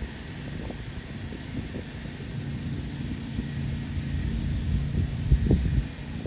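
Low, steady rumble of an Airbus A319's CFM56 jet engines on approach, growing slowly louder. Wind buffets the microphone throughout, with the hardest gusts about five seconds in.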